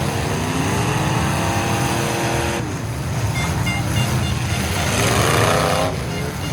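Full-size demolition derby trucks' engines running loud and revving, the pitch climbing twice, once near the start and once about five seconds in.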